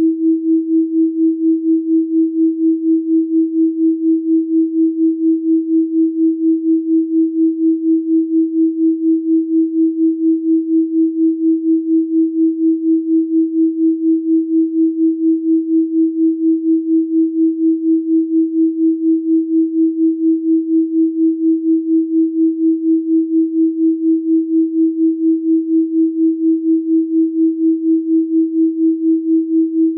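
Electronically generated 324 Hz sine tone held steady. It swells and fades evenly about three times a second, a beating pulse.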